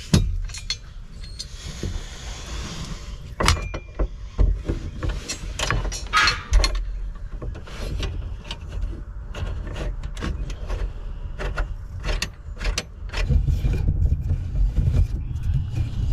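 Small metal hardware and hand tools being handled while a brace is fastened in place with a bolt and washer: an irregular run of clicks and knocks over a low steady hum.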